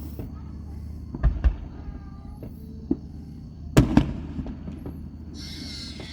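Fireworks exploding: a series of sharp bangs over a low rumble, the loudest a quick double bang about four seconds in.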